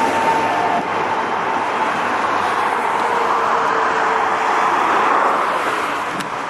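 A passing train: steady running noise with a few faint high tones, easing off near the end.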